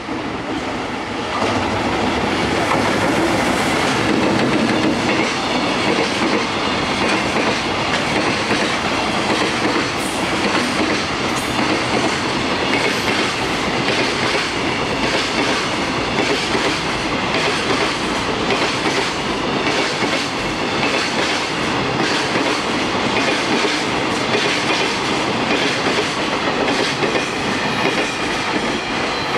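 EF210 electric locomotive and its train of container flat wagons passing close at speed: a steady rumble with wheels clattering over the rail joints. Louder from about a second and a half in, as the locomotive draws level.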